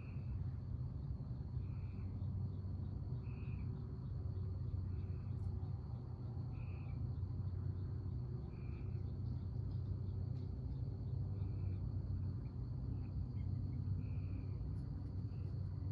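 Backyard ambience: a steady high insect trill, with a short call repeated every one and a half to three seconds over a low steady rumble.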